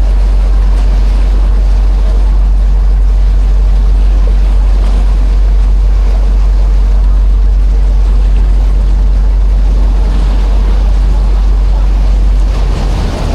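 Passenger ferry under way: a loud, steady low engine drone under an even hiss of water and wind. About twelve seconds in, the low drone breaks up and the level drops.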